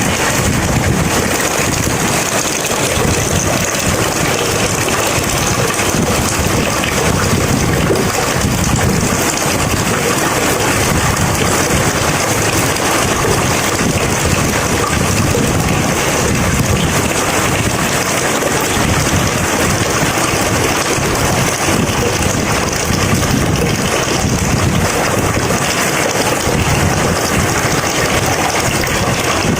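Rain falling steadily as a dense, even hiss, with no clear thunderclap.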